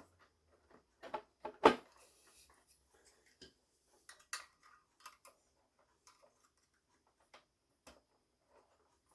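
Scattered small clicks and knocks of hands working on the vacuum cleaner's motor, pulling connectors off its wires. There is a louder knock about one and a half seconds in, and lighter taps follow every second or so.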